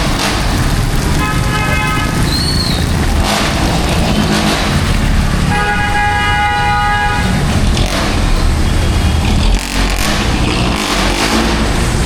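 Street traffic in heavy rain: a steady hiss of rain and tyres over engine rumble, with two car horn honks, a short one about a second in and a longer one around the middle.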